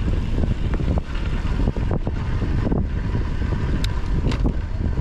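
Wind buffeting the microphone of a chest-mounted GoPro on a moving mountain bike: a steady, loud low rumble. A few sharp ticks stand out over it around a second in and again near the end.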